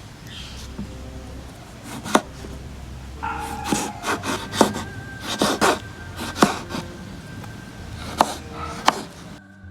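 Knife chopping on a wooden board, irregular sharp strikes with scraping between them, over soft background music.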